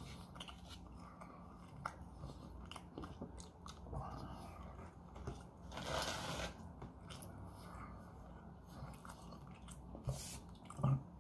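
A person chewing food close to the microphone, with small wet mouth clicks throughout. A short louder rush of noise comes about six seconds in, and a couple of sharp knocks near the end.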